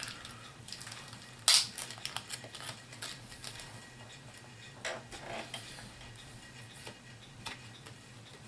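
Scattered small plastic clicks and taps from HeroClix miniatures being handled and set down, with the sharpest click about a second and a half in.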